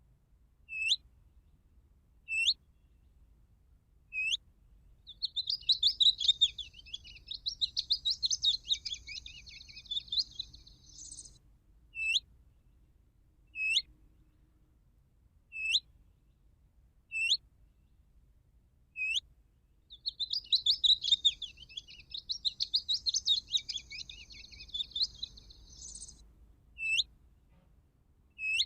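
Recorded bird calls played from an electronic bird caller used as a lure for trapping: short, sharp high notes sweeping downward, repeated about every second and a half, broken twice by a long twittering song phrase about six seconds long. The notes and phrases repeat identically, as in a looped recording.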